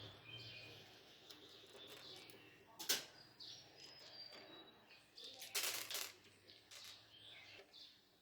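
Faint birds chirping over a low hum, with one sharp click about three seconds in and a brief scraping or rustling noise a little before six seconds.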